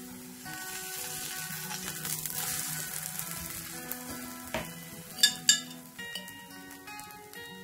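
Grated potato and egg pancake sizzling as it fries in oil in a pan, strongest in the first half. A few sharp knocks come near the middle, the loudest pair about five seconds in.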